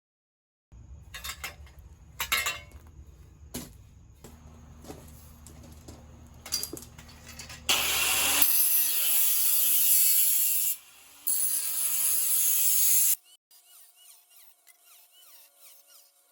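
Scrap aluminum being cut with a power tool. First come scattered knocks and clatter over a low rumble. Then the tool cuts loudly for about five seconds, with a brief pause near the middle, and stops abruptly, leaving quieter sounds.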